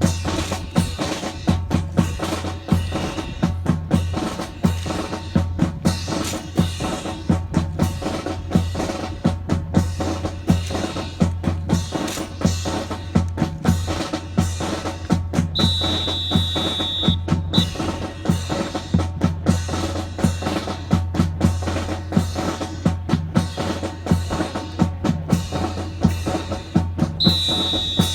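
Drum cadence of snare and bass drum beating fast and steadily, with a high steady tone held for a second or two twice, about halfway through and again near the end.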